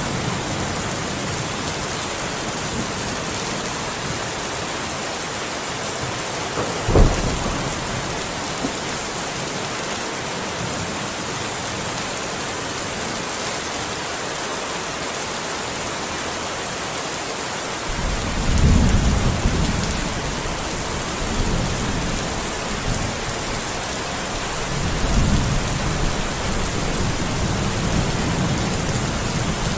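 Steady rain falling, with thunder: a short, sharp clap about seven seconds in, then two longer low rumbles in the second half.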